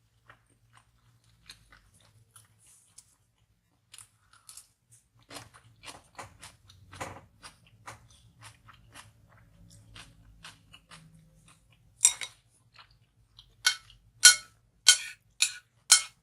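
Close-miked chewing of food, wet mouth clicks with crisp crunches, ending in a run of about six loud, sharp crunches.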